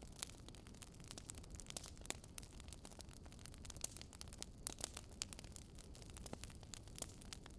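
Crackling wood fire: irregular sharp pops and snaps of burning logs over a low, steady rumble of the flames.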